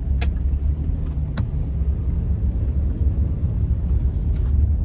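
Car driving, heard from inside the cabin: a steady low road-and-engine rumble, with two sharp clicks in the first second and a half.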